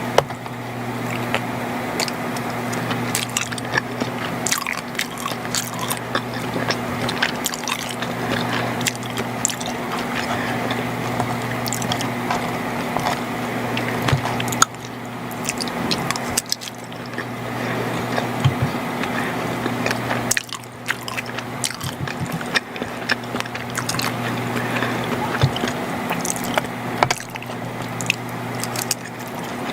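Close-miked eating of macaroni and cheese: chewing and mouth sounds, with many small clicks, over a steady low hum.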